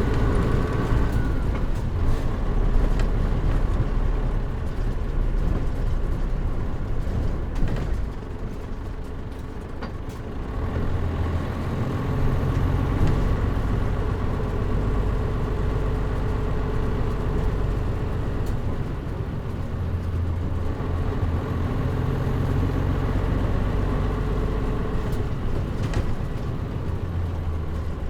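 Diesel engine of a Mitsubishi Fuso Aero Star (KL-MP37JM) non-step city bus, heard from inside the cabin with the air conditioning off. It eases off about eight seconds in and pulls steadily again from about ten and a half seconds.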